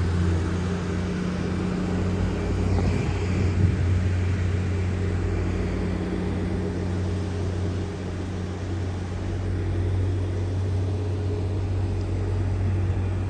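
A motor vehicle running along steadily, a low droning rumble with a deep steady hum and road noise.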